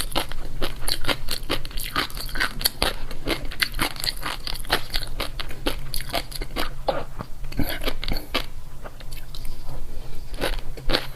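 Close-up eating sounds of a person biting and chewing crunchy food, dense crackly crunches several times a second, over a steady low hum.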